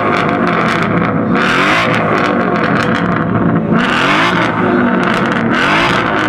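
A car engine revved up and let fall back again and again, several rev blips in a row over a loud, rough exhaust note.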